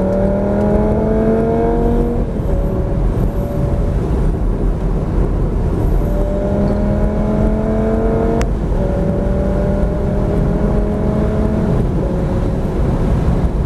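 Lamborghini Gallardo's V10 heard from inside the cabin under full-throttle acceleration at very high speed. The engine note climbs slowly in each gear, with paddle upshifts about two seconds in and about eight and a half seconds in, the second marked by a sharp crack. Heavy wind and road rumble lies underneath throughout.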